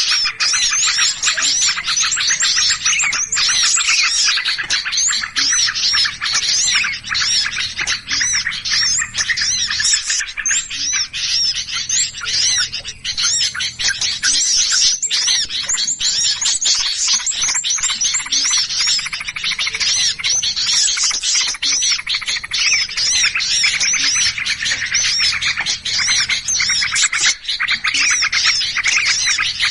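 A dense chorus of many small songbirds chattering and chirping at once, rapid high notes overlapping without pause. It is a lure recording of agitated mixed small birds ('burung ribut'), of the kind played to draw in birds.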